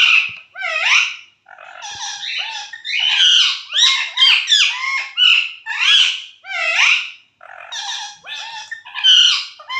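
Pet parrot chattering and squawking in a rapid string of short calls that bend in pitch, a couple each second, with two brief pauses. Its owner calls this the bird starting to talk.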